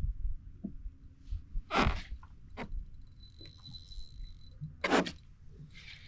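Wind rumbling on the microphone, with two short, loud hissing bursts about three seconds apart.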